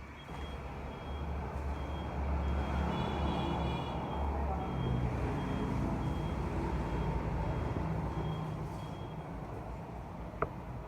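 Vehicle engine running with a low rumble, under a high-pitched beep repeating about twice a second; a brief tick near the end.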